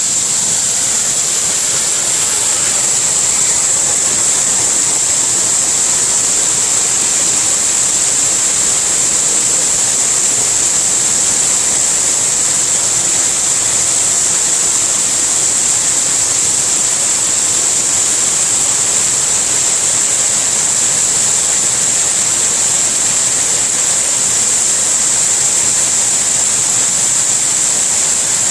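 A waterfall's water rushing steadily, a constant unbroken hiss strongest high up.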